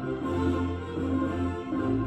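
Orchestral music with bowed strings, held chords over a low bass line that changes note about every second and a half.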